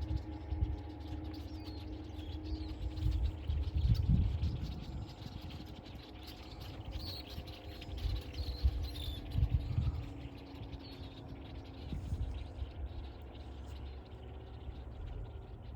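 Small birds chirping in short, high calls, scattered and most frequent in the middle, over a steady low hum of several pitches and repeated low rumbles.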